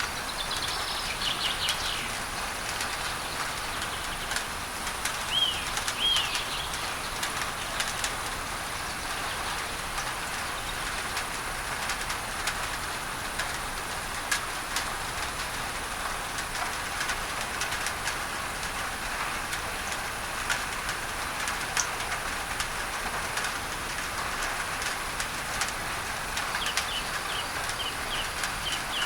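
Rain pattering on a tin roof, with a steady masking noise (pink noise) mixed in. Birds chirp briefly near the start, twice about five to six seconds in, and in a quick run near the end.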